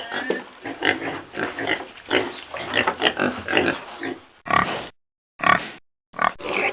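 Several pigs grunting and squealing in quick, overlapping calls, as in a fight. Near the middle the calls break off into a few separate squeals with silent gaps, then grow loud again near the end.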